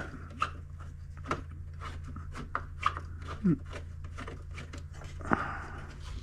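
Irregular clicks and knocks of parts being pulled and pried off a plastic dash cluster panel, with a short squeak a little past halfway, over a steady low hum.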